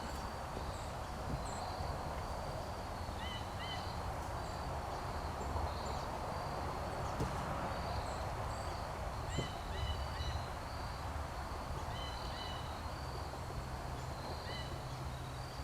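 Small birds chirping in short, scattered calls, a few in quick pairs or triplets, over a steady low rumble.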